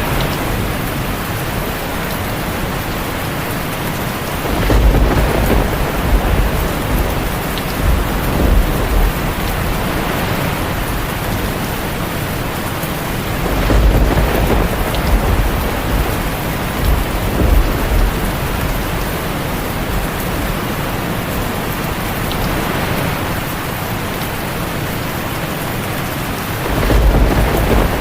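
Heavy rain falling steadily on a tin roof, with deep rolls of thunder rumbling three times: about five seconds in, around fourteen seconds, and again near the end.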